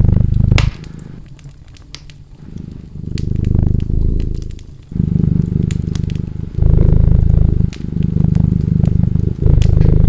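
A domestic cat purring close up, a deep rumble that swells and fades with each breath, weaker for a couple of seconds early on. Over it, the sharp pops and crackles of a wood fire burning in a fireplace.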